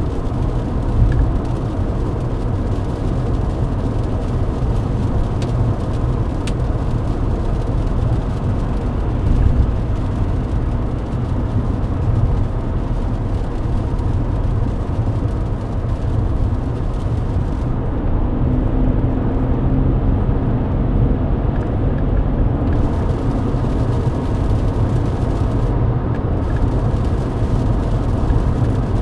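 Steady road noise inside a Mercedes-Benz W124 at highway speed on a wet road: engine and tyre noise, heaviest in the low end. Past the middle the high hiss drops away for a few seconds while a low hum comes up.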